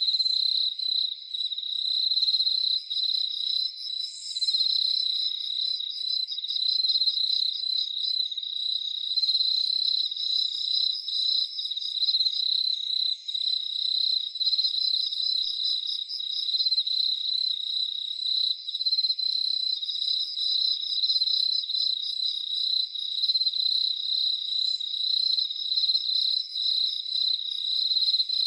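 Crickets chirping in a continuous chorus, a high, steady trill with fast pulses.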